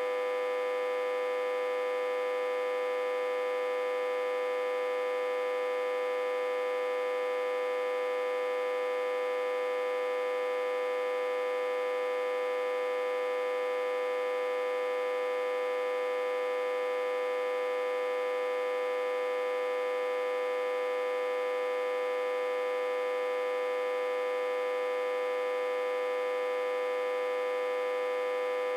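Autotransformer, reverse-connected to a step-down transformer and fed about 60–80 V, humming steadily. It is one loud, steady mid-pitched tone with many overtones above it and no deep bass.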